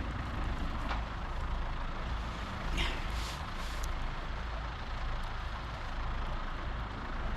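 Steady low engine rumble, with a few sharp crackles from a small wood campfire about one and three seconds in.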